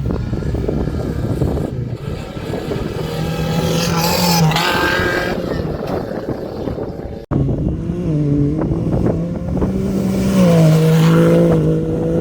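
Off-road motorcycle engine running at changing revs, its pitch stepping up and down over a rough noise of wind and terrain, with a sudden break about seven seconds in.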